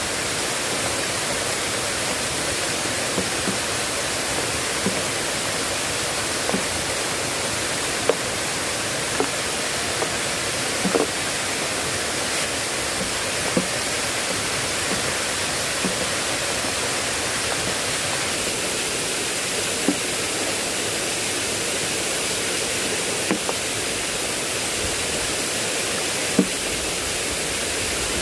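Heavy rain falling steadily, an even hiss, with scattered single drops plopping every second or two.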